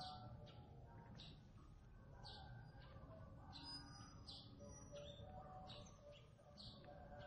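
Faint birdsong: a short, high, falling chirp repeated about once a second, with softer calls from other birds lower down.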